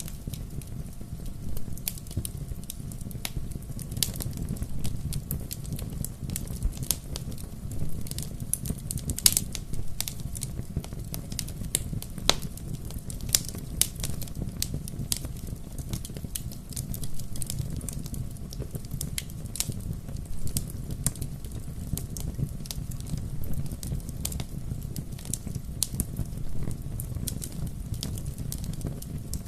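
Wood fire burning, crackling and popping irregularly over a steady low roar of flame.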